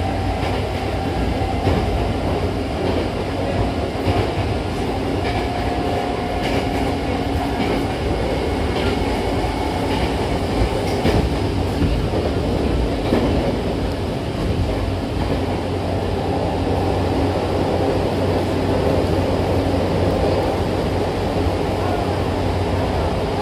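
Hankyu Railway commuter train running at speed, heard from inside the passenger car: a steady rumble of wheels on rail, with a few clicks from the wheels over the track in the first half.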